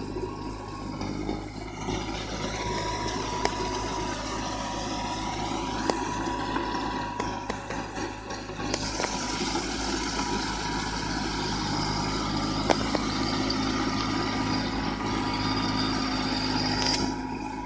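Small tractor's engine running steadily at idle, with a few sharp clicks over it.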